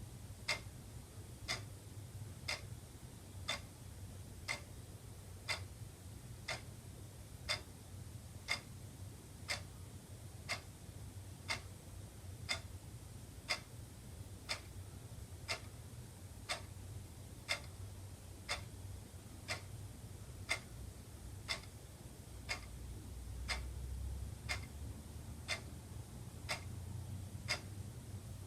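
Wall clock ticking steadily, about two ticks a second in a tick-tock with louder and softer ticks taking turns, over a faint low hum.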